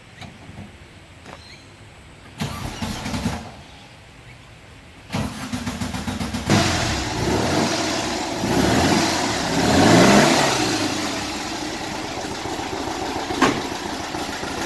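Air-cooled VW flat-four in a split-screen Kombi ute, a cammed engine, cold-started: after bursts of cranking it catches about six and a half seconds in. It is revved up and down, then settles to a steady idle, and starts not too badly from cold.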